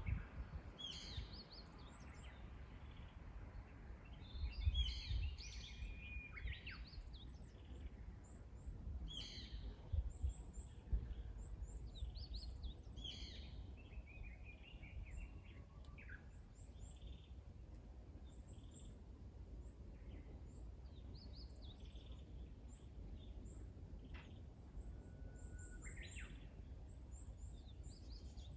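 Several wild birds chirping and calling in short, high phrases over a faint steady hiss, with brief low rumbles about five and ten seconds in.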